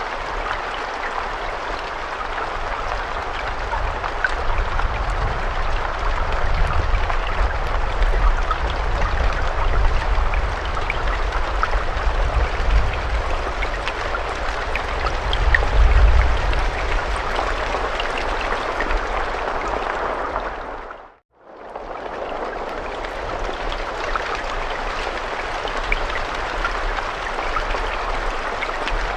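Steady rain: a dense, even hiss with scattered ticks of single drops and a low rumble underneath, strongest in the first half. About two-thirds of the way through, the sound fades out to silence and straight back in.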